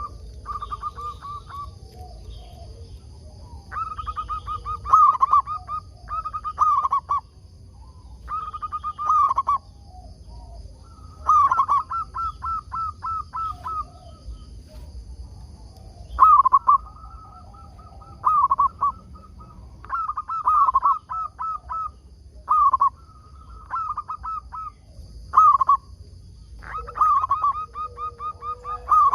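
Zebra doves (perkutut) cooing: about a dozen phrases of quick, rolling staccato coos, one after another with short pauses between.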